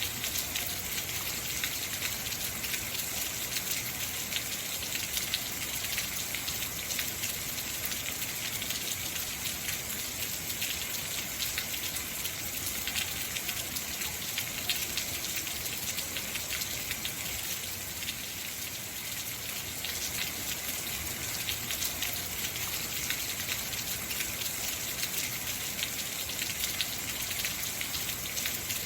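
Heavy rain falling steadily, a dense hiss of drops with many fine individual drop ticks.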